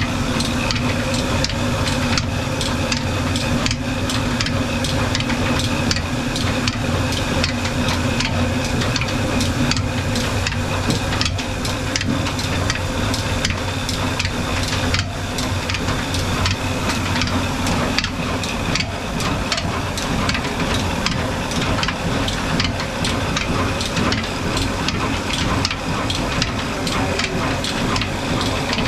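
Old black desi diesel engine running steadily under load, driving a flour mill (atta chakki), with a regular knocking beat.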